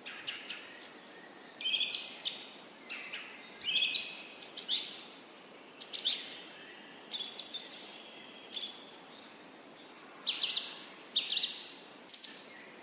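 Birds chirping and singing: a run of short, high chirps and whistles, some sliding in pitch, with brief gaps between them.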